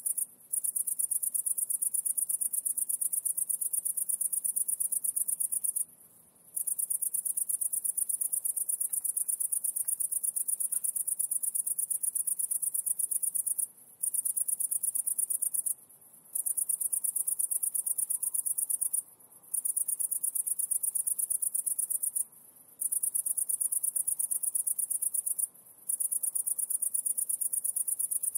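High-pitched insect song: a fast, continuous trill that breaks off briefly about seven times at uneven intervals.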